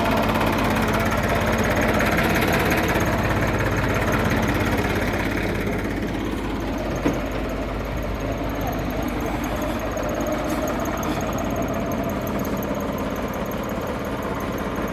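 Indofarm 2030 tractor's diesel engine running steadily, a little louder for the first five seconds before easing to a lower, even run. A single sharp click comes about seven seconds in.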